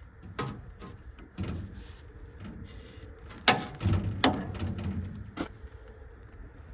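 Scattered knocks and clunks of hands-on work on an old hay baler during greasing, about half a dozen in all, the two loudest close together in the middle with a low rumble after them.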